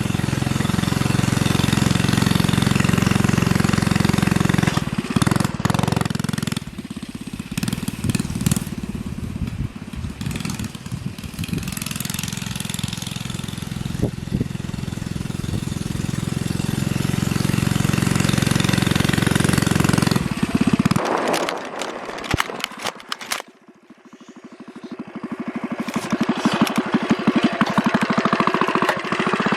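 Coleman CT100U minibike's single-cylinder four-stroke engine running hard while being ridden, its note rising and falling with the throttle. About three quarters of the way through the engine sound drops away briefly, then builds back up.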